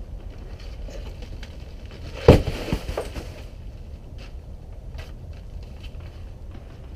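A section of brick wall, held together by wire mesh behind it, collapsing onto a driveway: one heavy crash about two seconds in, followed by a few smaller knocks of falling brick and rubble over the next second. It came away because it was anchored to the house by only a few nails as wall ties.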